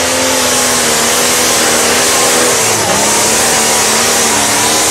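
A pulling tractor's engine running flat out under load during a run, loud and steady, with a dense noisy roar over its engine note. The pitch sags briefly about three seconds in, then climbs back.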